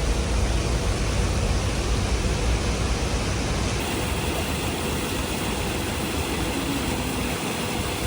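Steady rushing noise of an airliner cabin, with air and engine hum. About four seconds in, the deep rumble drops away abruptly.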